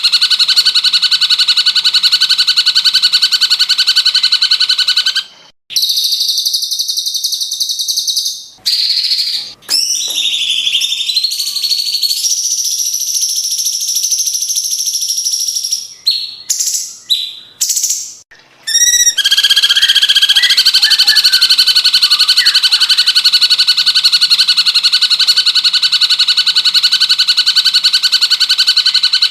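Recorded cucak cungkok bird song: a loud, long, rapid trill held at a steady pitch, broken after about five seconds by a stretch of varied higher whistles and chirps, then taken up again about nineteen seconds in.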